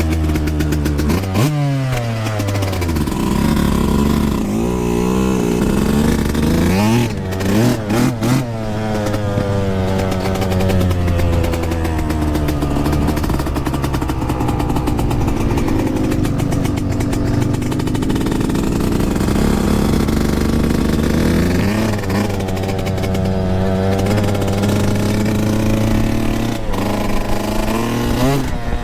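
Yamaha YZ125 single-cylinder two-stroke motocross bike being ridden, its engine revving up and down as the throttle is opened and chopped through the gears, with a few brief drops in level about seven to eight seconds in.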